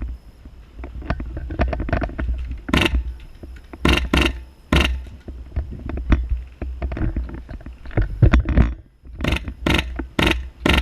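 A series of irregular knocks and scrapes, some coming in quick runs about three a second, over a steady low rumble from the action-camera microphone.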